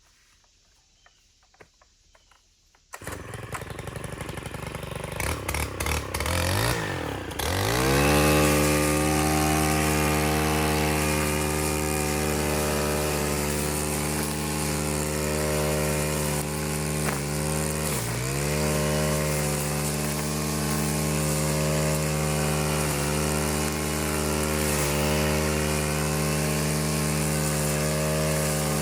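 Chainsaw engine cutting in suddenly about three seconds in, running unevenly with pitch swinging up and down for a few seconds, then settling to a steady pitch with a few brief dips, the deepest about eighteen seconds in.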